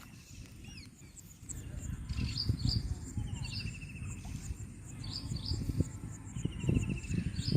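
Small birds calling: short high chirps and a rapid trill heard twice, over a low rumbling noise that grows louder about a second and a half in.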